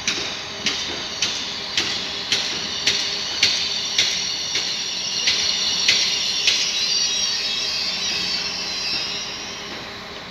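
A train rolling past on the tracks, its wheels clicking over rail joints about twice a second, with a high hissing squeal from the wheels that swells in the middle and fades toward the end.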